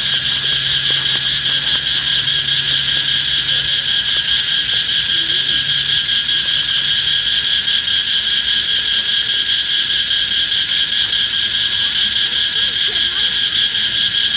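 A loud, steady, high-pitched insect chorus, a continuous shrill trill with a fast even pulsing.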